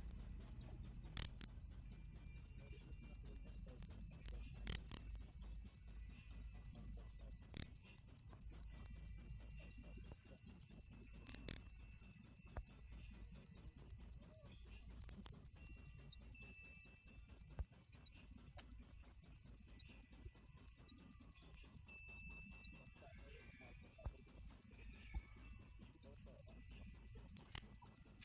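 Cricket chirping steadily: a high-pitched chirp repeated evenly several times a second without a break.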